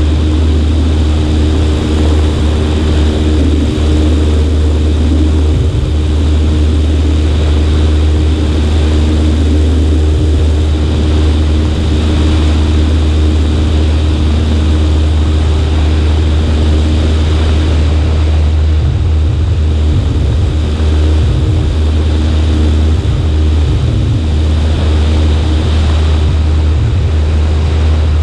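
Cessna 140A's single piston engine and propeller droning steadily in flight, loud and unchanging.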